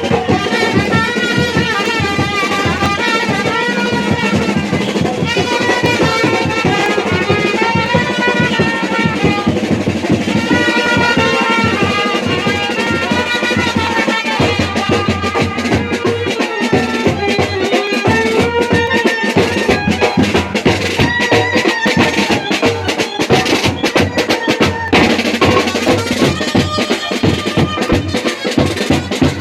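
Band baja, an Indian street brass band, playing a wavering melody over continuous fast drumming.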